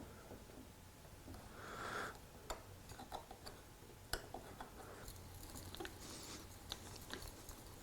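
Faint, scattered clicks and light taps, with a soft brief scuff about two seconds in: small tools and wooden parts being handled on a workbench.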